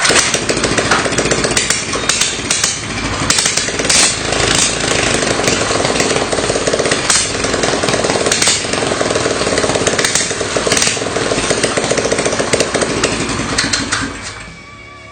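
A small petrol engine running and revving up and down unevenly.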